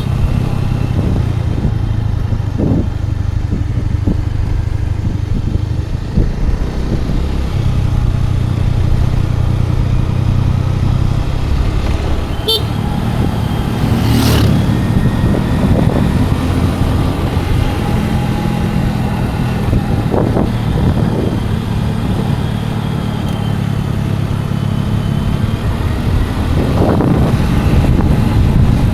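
Scooter engine running at road speed, its note shifting now and then, with road and wind noise; a brief sharp sound cuts in about twelve seconds in, followed by a short burst of noise.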